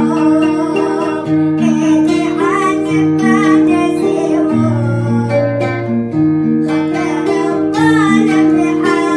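Arabic song: a voice singing a melody over plucked guitar accompaniment with held bass notes.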